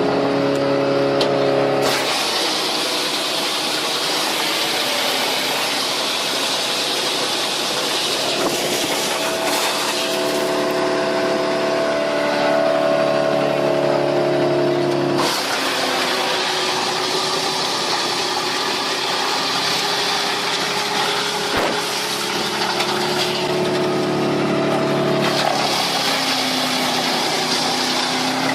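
Engine-driven homemade wood chipper running, a steady engine hum under a loud, dense hiss. The sound changes abruptly about two seconds in and again about halfway through.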